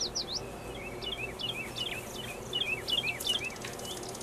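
A small bird chirping over and over: quick, high, falling chirps, several a second. Near the end a faint crinkling of a disposable glove being pulled onto a hand.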